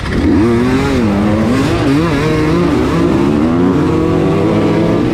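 Enduro motorcycle engines accelerating hard from a standstill, starting suddenly and loud. The nearest engine's pitch climbs and drops several times as it shifts up through the gears, with other bikes' engines running alongside.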